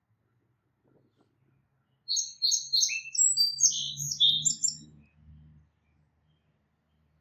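Small bird chirping: a quick run of short, high chirps starting about two seconds in and lasting about three seconds.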